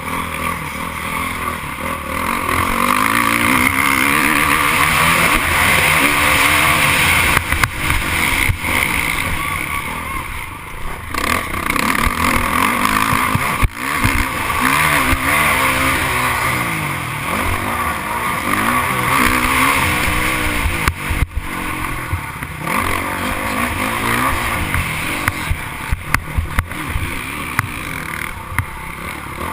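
Motocross bike engines racing on a dirt track, their pitch rising and falling as riders rev, shift and let off.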